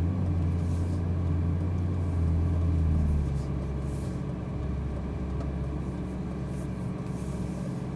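Ferrari 458 Italia's V8 engine running at low revs as the car creeps along to park, a steady low hum that drops a little about three seconds in.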